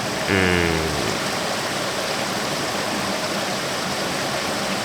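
Steady rushing noise like running water, with a man's short hummed filler sound about half a second in.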